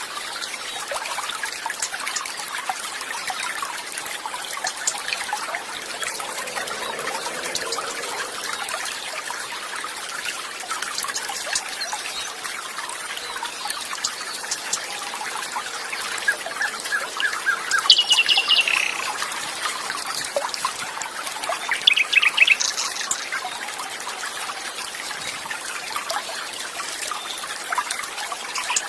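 Stream water trickling steadily, with birds chirping over it; a few louder short calls come about two-thirds of the way through.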